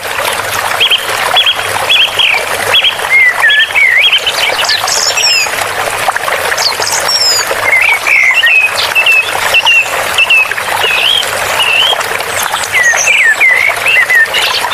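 Steady rush of running water with small songbirds chirping over it in quick whistled notes that slide up and down, with a few higher, thinner calls.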